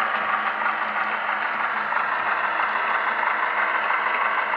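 HO scale model locomotive running steadily along the layout track, a continuous hum with a low steady drone under it.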